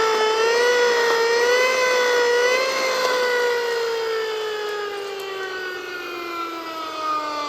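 Horn of a 1964 Mattel Booster-Engine V-RROOM toy, a hand-powered, fire-truck-like siren tone. It wavers up and down for the first few seconds, then slides steadily lower in pitch as the spun-up flywheel winds down.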